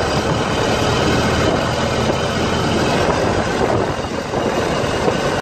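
Loud steady running noise of an old vehicle on the move: engine and rattling clatter, cut off suddenly at the end.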